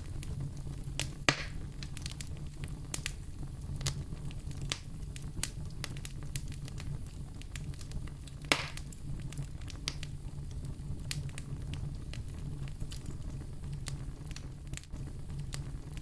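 Wood fire crackling in a fireplace: a steady low rumble of flame under many small snaps, with two louder pops about a second in and about halfway through.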